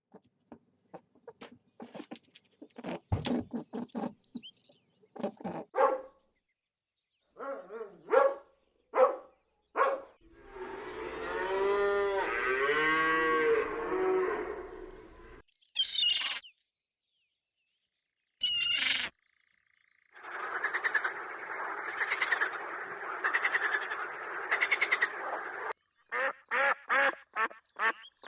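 A string of different animal calls played one after another with short gaps, several animals in turn. It includes a dense stretch of many overlapping calls and a short high rising call, and near the end a quick run of short repeated calls, about two or three a second.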